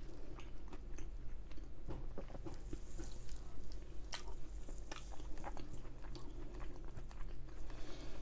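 Close-up chewing and mouth sounds of someone eating a spoonful of curry and rice: soft, wet chewing with many small, irregular clicks. Near the end a wooden spoon goes back into the bowl.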